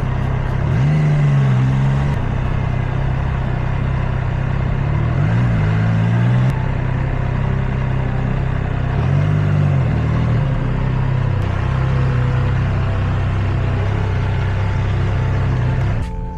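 Motor vehicle engine and road noise. The engine note rises and falls about three times, as when speeding up and changing gear.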